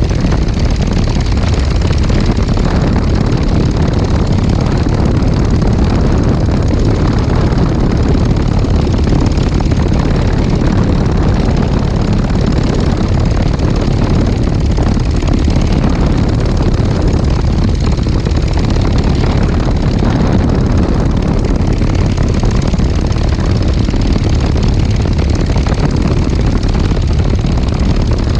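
Legal Eagle XL ultralight's engine and propeller running steadily in flight, a loud even drone that does not change.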